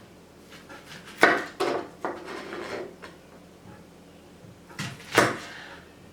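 Household items being handled: two sharp knocks just over a second in, a short scraping, then another knock about five seconds in, the clatter of dishes and wooden kitchenware being set down and moved.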